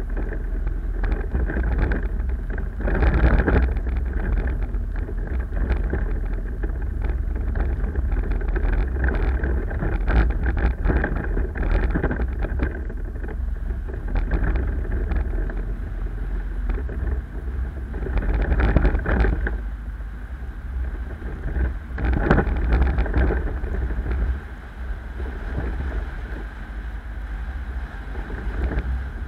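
Car driving: a steady low rumble of engine and road noise, with a few louder surges lasting a second or so.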